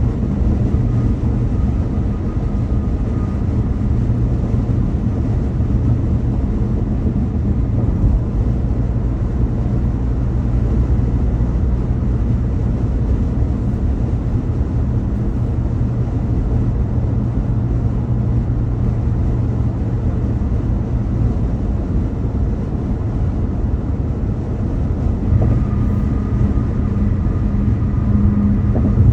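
Car driving at speed on a highway: a steady low rumble of road and engine noise, with a faint higher whine near the start and again near the end.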